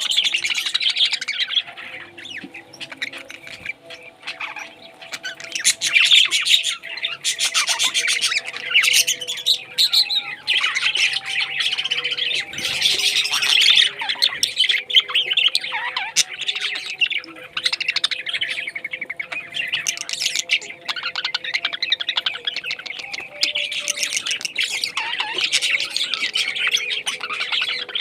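Parrots chirping, chattering and squawking continuously, with many calls overlapping.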